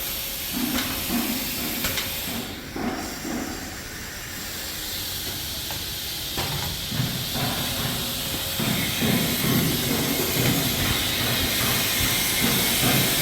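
Steady hiss over a low rumble of outdoor city and work-site noise, with scattered light knocks; the rumble grows busier about halfway through.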